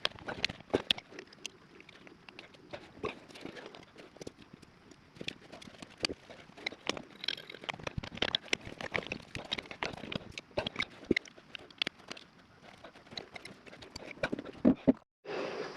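A run of irregular light clicks and taps, several a second, as of pipe fittings and tools being handled; it stops suddenly shortly before the end.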